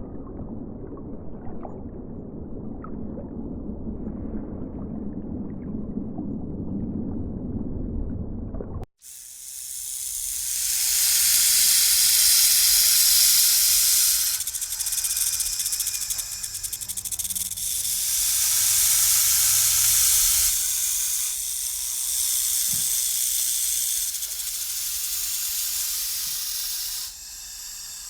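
A low rumbling animal or water sound that cuts off abruptly about nine seconds in. After the cut, a snake hisses in several long breaths, each hiss lasting a few seconds.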